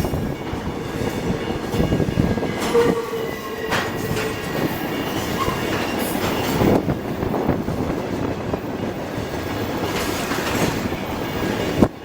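BNSF freight train cars rolling past at close range, wheels clacking over rail joints in repeated knocks. A brief wheel squeal comes a few seconds in.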